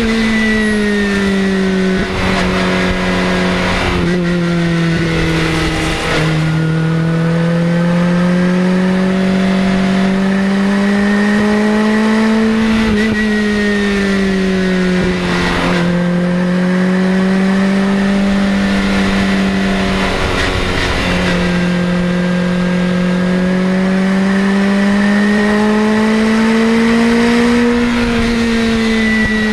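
2004 Lotus Exige Cup's naturally aspirated Toyota 1.8-litre four-cylinder engine and loud exhaust under way. The engine note rises and falls slowly as revs change, with brief dips about 2 and 6 seconds in.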